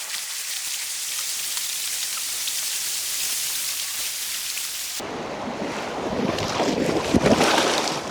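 Steady hiss of water noise, like rain on a water surface. About five seconds in it cuts abruptly to louder, churning water and wind noise on the microphone, which swells and then drops away near the end.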